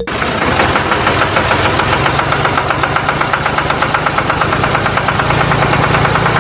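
Tractor engine running steadily with a fast, even chugging pulse, cutting in suddenly.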